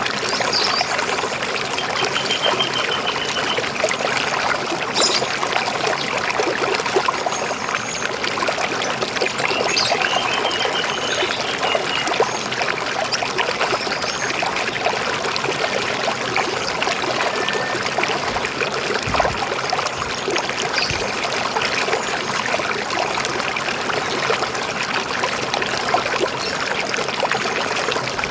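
River water flowing steadily, with a few short bird chirps and trills now and then.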